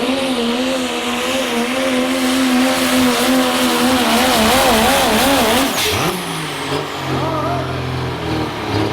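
Diesel 4x4 pickup engine held at high revs under heavy load as it pulls the sled, its pitch wavering up and down. About six seconds in the revs drop off sharply and the engine falls to a lower, quieter running note as the pull ends.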